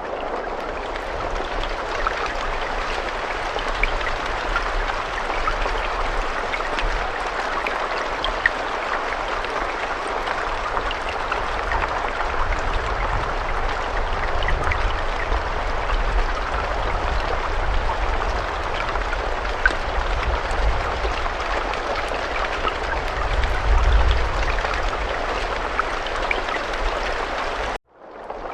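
Steady rainfall, an even hiss with scattered sharp drop ticks and a low rumble underneath. It cuts out abruptly for a moment near the end, then resumes.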